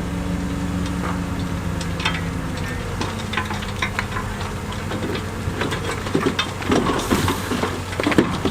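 Diesel engine of heavy earthmoving equipment running steadily; its pitch shifts about three seconds in. Scattered knocks and clatter grow more frequent toward the end.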